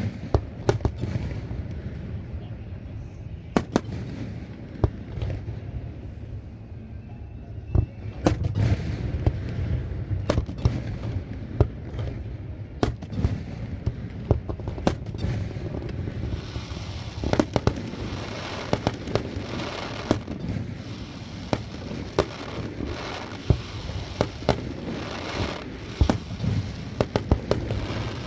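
Fireworks display: shells bursting in a string of sharp bangs. The bursts grow denser a little past halfway, with a crackling hiss between them.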